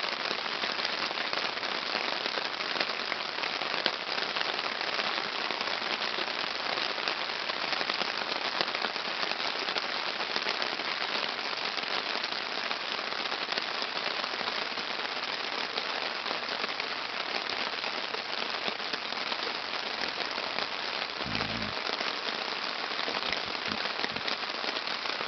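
Heavy rain falling steadily on a tarp shelter: a dense, even hiss of many drop impacts.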